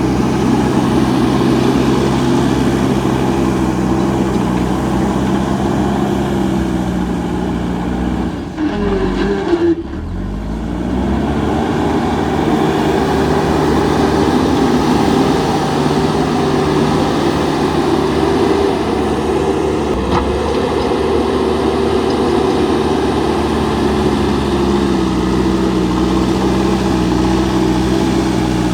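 JCB backhoe loader's diesel engine running under working load. The engine note sags briefly about a third of the way in, then climbs back and holds steady, with a slight rise in revs around two-thirds of the way through.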